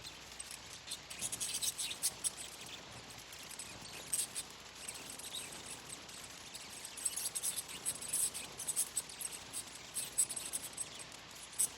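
Budgies chattering: a dense, irregular run of short, high chirps and squeaks, coming in bunches.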